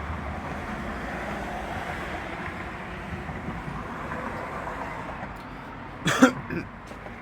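A person coughing twice in quick succession about six seconds in, over steady outdoor background noise.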